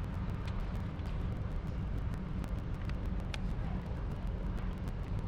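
Buick Excelle four-cylinder engine idling steadily in the workshop, with faint light clicks over it; the car has an intermittent misfire on cylinder 3.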